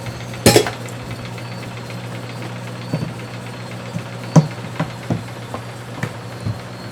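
Small model steam mill engine running gently at a steady 8 psi, a steady hum with a light mechanical tick. Several irregular sharp clicks or knocks stand out over it, the loudest about half a second in.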